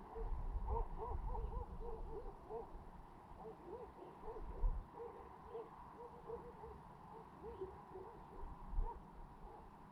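Many birds calling together: short, low, hooting notes overlapping several times a second, thickest in the first half and thinning out later.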